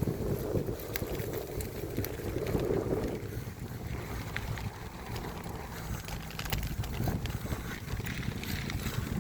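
Mountain bike ridden over a dirt trail, heard through a bike-mounted phone: a steady low rumble of tyres and wind on the microphone, with scattered clicks and rattles.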